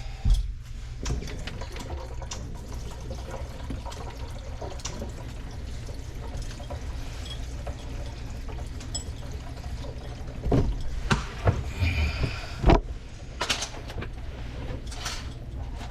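Water running from a kitchen faucet into the sink, a steady rush, while the new drain under it is being tested. A thump comes just after the start, and a cluster of knocks and clunks comes in the last third.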